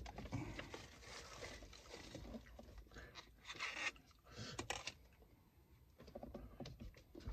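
Faint eating sounds: chewing and crunching on fried chicken, with scattered soft clicks and short rustles from handling the food and wrappers.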